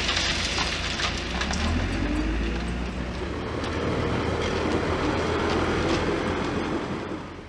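A rail vehicle running on the track, its motor or engine note rising in pitch over the first few seconds and then holding steady over a low rumble, fading down near the end.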